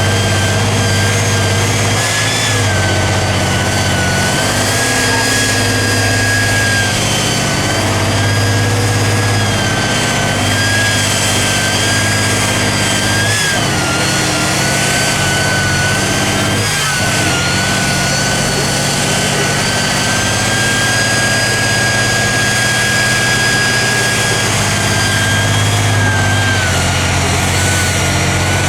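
Tatra 813 truck's air-cooled V12 diesel running steadily under load, a low drone with a high whine over it that wavers slightly in pitch.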